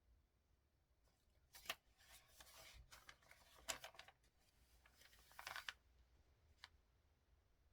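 Paper rustling and being handled in a few short bursts, with sharp clicks about a second and a half in and near the middle, and a last faint click near the end.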